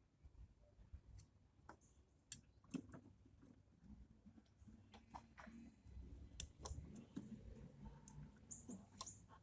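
Faint, scattered clicks and light taps of parts being handled as a car headlight assembly is worked into place, irregular and a few per second at most.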